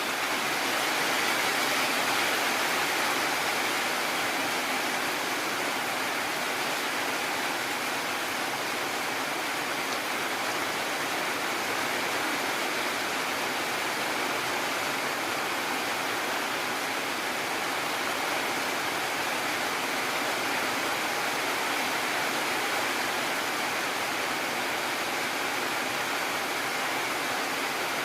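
Heavy rain falling steadily, a dense even hiss with no thunder claps.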